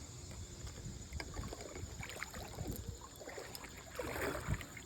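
Someone wading through shallow river water: irregular splashing and sloshing of feet moving through the water, with a longer swish about four seconds in.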